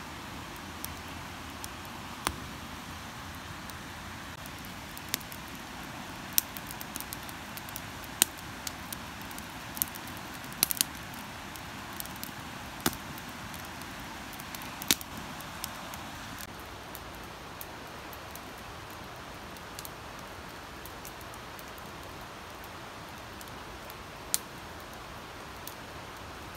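Wood campfire crackling, with scattered sharp pops that come thickest in the middle and thin out after, over a steady rushing background.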